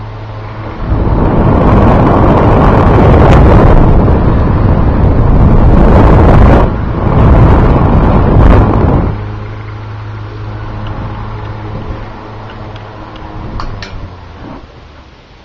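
1950s General Electric Quiet Blade table fan running, its electric motor giving a low, steady hum. From about a second in until about nine seconds in, its airflow blows straight onto the microphone as a loud, even rush. After that the hum goes on alone and slowly grows quieter, with a few faint clicks near the end.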